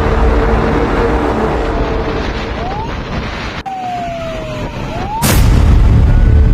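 Fire truck siren wailing, its pitch rising and falling slowly, over a heavy low rumble. About five seconds in, a sudden loud hit, after which a heavy low pulsing comes back under the siren.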